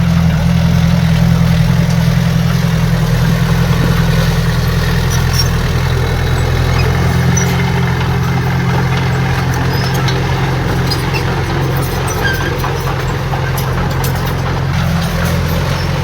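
Diesel engine of heavy earthmoving equipment running at a steady speed, a constant low hum with faint scattered clicks over it.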